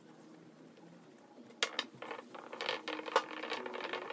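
Small plastic toy wheels being wiped with a cloth and handled on a hard surface: cloth rubbing with light plastic clicks and knocks, starting about one and a half seconds in, with one sharper knock about three seconds in.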